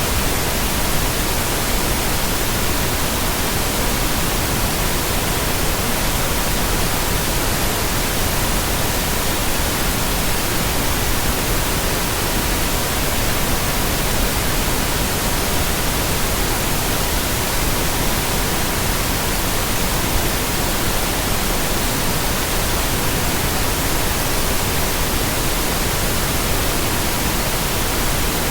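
Steady synthetic pink noise with a faint, constant tone at 963 Hz laid under it, unchanging throughout.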